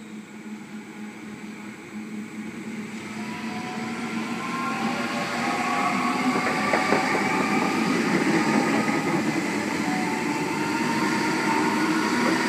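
Sydney Trains Millennium (M set) electric double-deck train pulling slowly into the platform. Its running noise grows steadily louder over the first several seconds as it draws alongside, then holds level as the cars roll past, with a whine of several steady pitched tones over the rumble.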